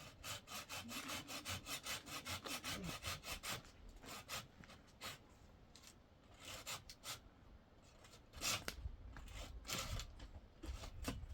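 Handsaw cutting through wood: quick, even strokes for the first few seconds, then slower, scattered strokes with short pauses.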